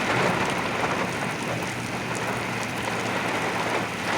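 Heavy rain pouring down in a derecho thunderstorm, a steady hiss with scattered drop hits, while strong gusts are blowing.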